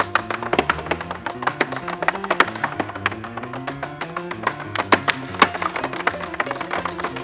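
Tap dancing: the metal taps on the heels and toes of tap shoes strike the floor in fast, rhythmic clicks over accompanying music.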